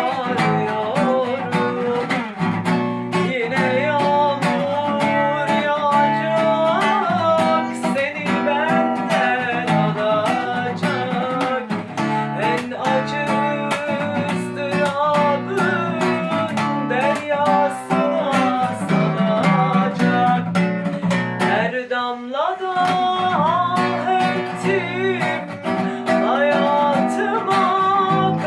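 Acoustic guitar music: an instrumental passage of a song, a melody line over strummed guitar chords, with a short break about 22 seconds in.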